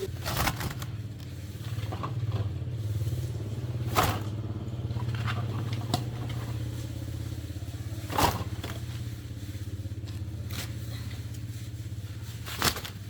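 A small engine running steadily at a low, even speed, with a few sharp clacks or knocks over it.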